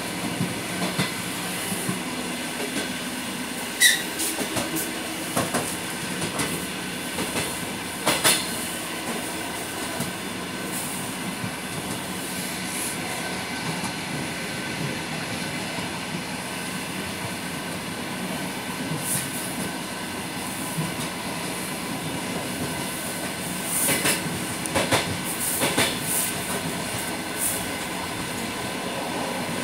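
Suburban electric train heard from inside the carriage while running at speed: a steady rumble of wheels on the rails, with a few sharp clacks and a brief squeal about four seconds in.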